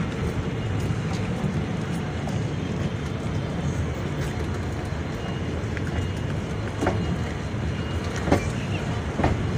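Passenger train coach rolling slowly into a station, heard from the open doorway: a steady low rumble with a few sharp knocks in the last few seconds.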